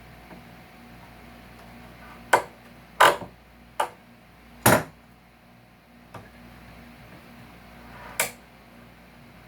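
Sharp knocks and clicks of hand tools on wood while staples are pried out of salvaged couch framing: four in quick succession and one more near the end.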